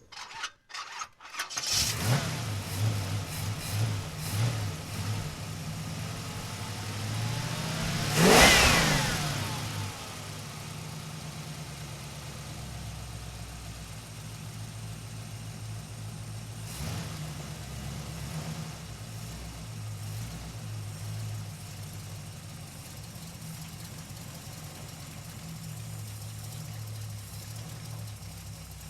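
An engine starts, running unevenly at first, revs up sharply once about eight seconds in and falls back, then settles into a steady idle.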